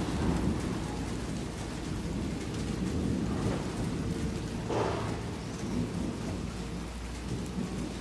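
Thunder rumbling steadily in the distance over falling rain, with a brief louder rush of noise about five seconds in.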